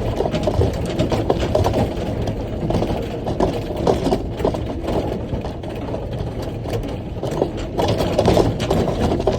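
Diesel engine of a large rock haul truck running, heard from the driver's cab, with frequent rattles and knocks over the steady engine sound.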